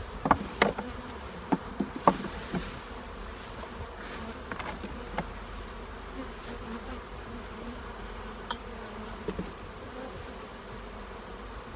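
Honey bees buzzing steadily around an open hive. A few sharp knocks in the first couple of seconds, the loudest about two seconds in, then scattered faint clicks.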